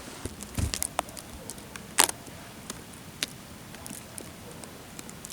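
Footsteps on forest floor litter: irregular crackles and snaps of twigs and dry leaves underfoot, with the loudest snap about two seconds in, then lighter and sparser steps.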